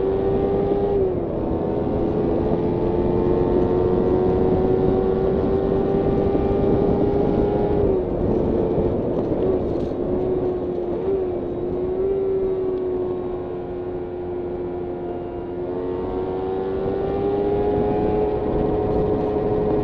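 Kawasaki Ninja 300 parallel-twin engine under way. Its note drops sharply about a second in and then climbs steadily. It drops again about eight seconds in, wavers for a few seconds, runs lower, then rises again near the end, with wind rush behind it.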